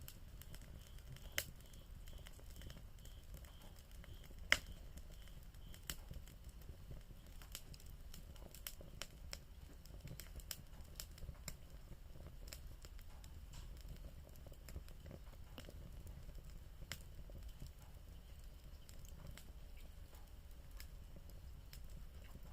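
Bonfire crackling: scattered sharp pops and snaps at irregular intervals, the loudest about four and a half seconds in, over a low steady rumble.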